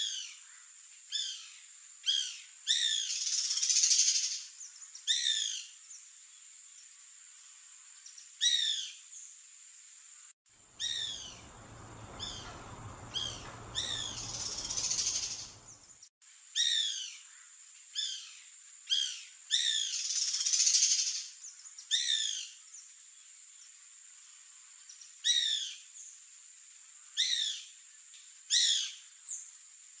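Bananaquit calling: short, sharp descending chirps repeated about once a second, broken by three longer, denser trills, over a steady high whine.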